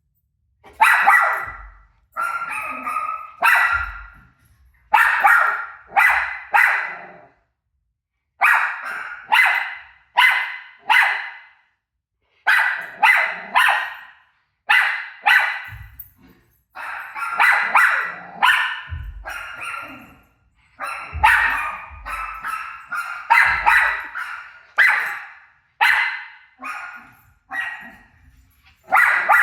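A dog barking in quick bursts of two to four sharp barks, with short pauses between bursts.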